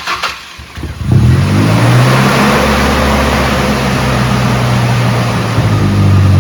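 Ford Ranger prerunner's engine cranked by the starter and catching about a second in, then running loud and steady at a cold-start idle through its exhaust.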